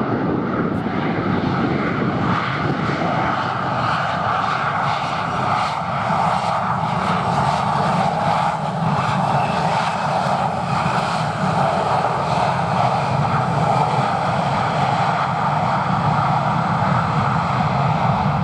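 Dassault Falcon 2000LX business jet's twin turbofan engines running steadily as the jet arrives to land.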